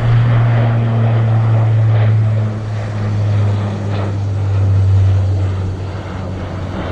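Aircraft engines running nearby: a loud, steady low drone that sinks slightly in pitch about four seconds in.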